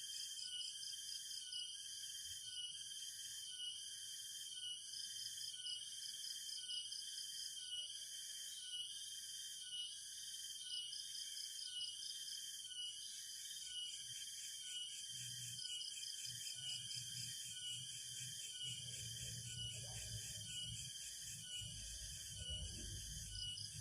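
Chorus of forest insects: high-pitched trilling that pulses evenly about once a second, over a thin steady whine. A low rumble joins about fifteen seconds in.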